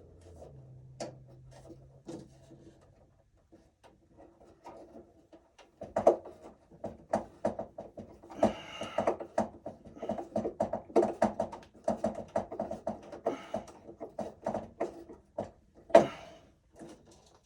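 Rapid irregular clicks, taps and knocks of hands and tools working wires inside a metal breaker panel, starting about six seconds in, with a couple of brief scraping rustles.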